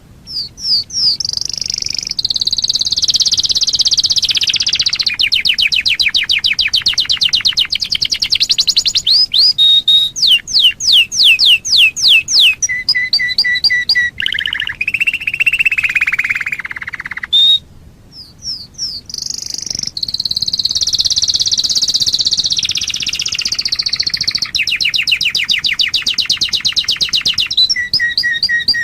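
Domestic canary singing: two long song phrases of fast trills, rapid repeated notes and sliding whistles, broken by a short pause about two-thirds of the way through.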